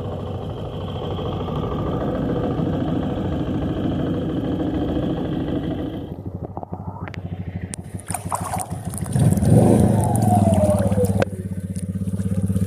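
Suzuki Eiger 400 ATV's single-cylinder four-stroke engine running with the quad deep in flood water. The note changes and drops about six seconds in, then settles to a steady low idle near the end.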